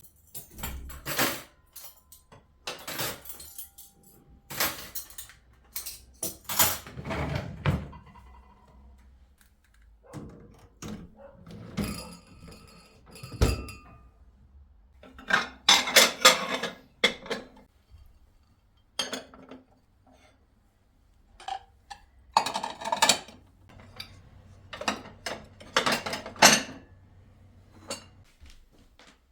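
Dishes and cutlery being handled: a string of clinks, knocks and clatters with short pauses between them, a few briefly ringing.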